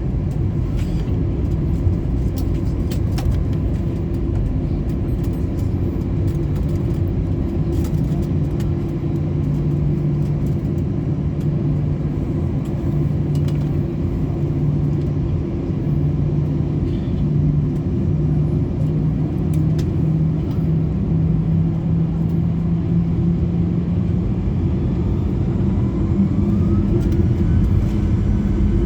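Airbus A320-214's CFM56 jet engines heard from inside the cabin, running at idle with a steady low rumble and hum and a few clicks. Near the end the engines begin to spool up for the takeoff roll, a whine rising in pitch over the rumble.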